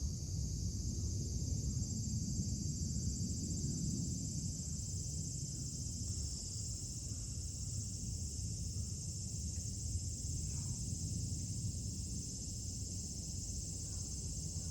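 Steady chorus of insects calling in one continuous high band, over a steady low rumble.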